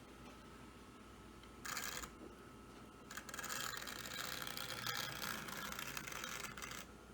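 Vintage Tyco HO-scale model train running on its track, a fine clattering rattle that swells twice: briefly about two seconds in, then for about four seconds.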